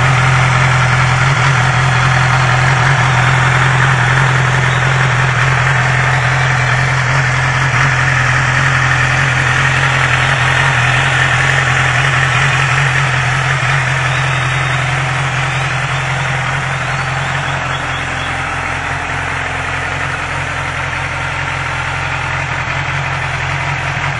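Yamaha R6's 599 cc inline-four engine idling steadily, growing slightly quieter toward the end.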